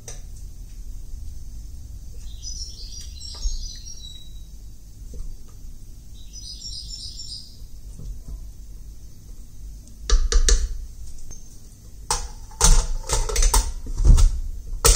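A small bird twittering in two short bursts, over a low rumble. From about ten seconds in come a series of loud knocks and clatters.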